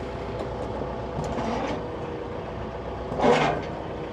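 Compact tractor engine idling steadily while a Category 1 quick hitch is hooked onto an implement. A short loud clatter comes about three seconds in, with a smaller one just over a second in.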